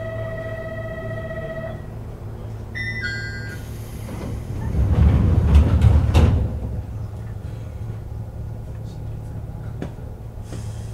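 JR 101 series electric train standing at a station before departure: a steady electronic departure bell rings and stops about two seconds in, a short falling two-note signal follows, then a hiss of air and the doors closing with a loud rumbling thud and a sharp bang around five to six seconds in. A steady low hum runs underneath.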